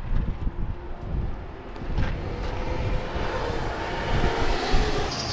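An engine running, with its sound building up over the last few seconds, over a low rumble on the microphone.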